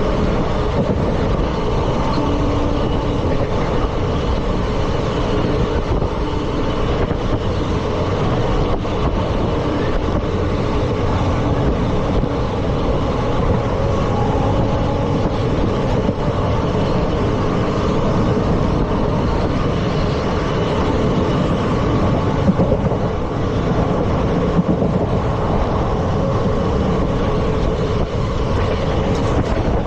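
Indian Railways ICF passenger coaches running at speed over the track: a loud, steady rumble of wheels on rail with faint steady tones running through it, and two brief louder knocks near the end.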